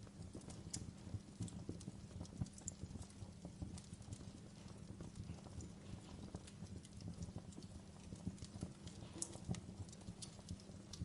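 Wood logs burning in a fireplace, crackling with irregular sharp pops and snaps over a steady low rumble of the flames.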